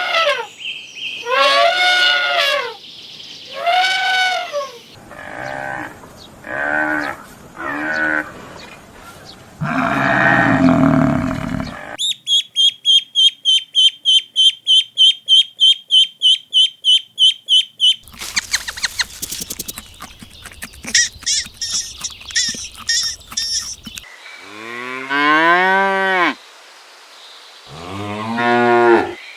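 A run of different farm animal calls one after another, with cattle mooing, long calls dipping and rising in pitch, near the end. In the middle, a fast, high chirp repeats about four times a second for some six seconds.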